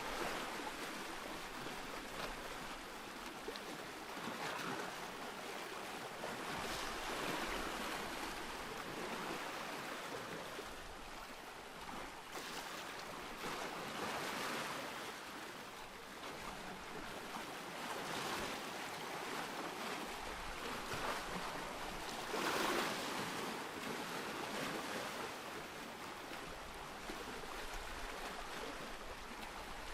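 Ocean surf: waves breaking and washing in as a continuous rush that swells and falls every few seconds, the loudest wave about three-quarters of the way through.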